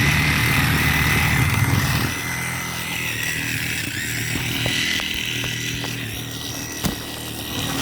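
A small motor or power tool running steadily with a low hum and a high whine, dropping a little in level about two seconds in.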